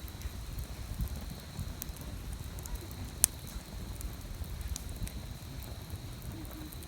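Wood fire crackling in a BUNDOK fire grill: a scatter of small sharp crackles over a low steady rumble, with one loud pop about three seconds in.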